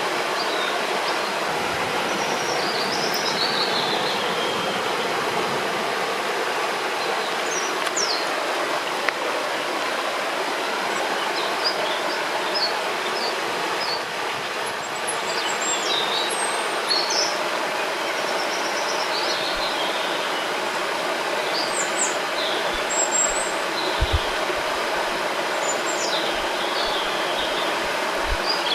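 River water flowing with a steady rush, with birds chirping and singing in short phrases over it, scattered throughout.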